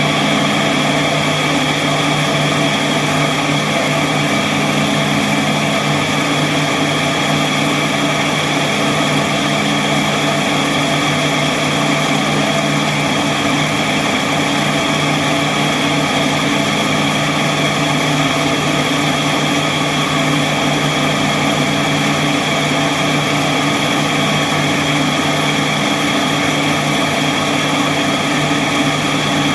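Park Fastback I machine running steadily with a constant hum and a high whine, its belt gearbox newly replaced and calibrated.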